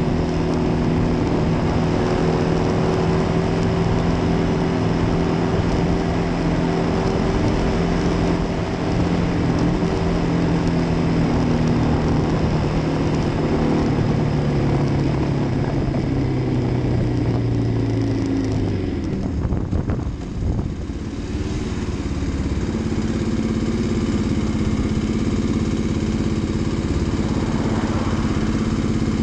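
Kawasaki D-Tracker's single-cylinder engine running at a steady cruise with wind rush. About halfway through the engine note sinks as the bike slows, and it then settles to a lower, even note.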